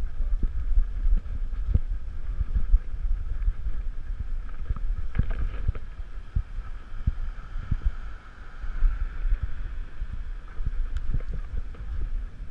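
Handling rumble and irregular thumps from a GoPro strapped to a dog's harness as the dog moves about, with wind buffeting the microphone.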